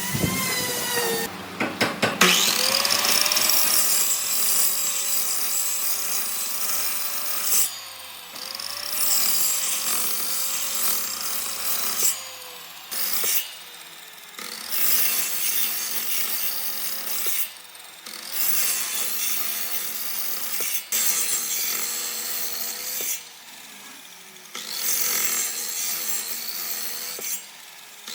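Handheld electric power tool working wood, its motor whine wavering in pitch as it bites and eases off. It cuts out briefly several times.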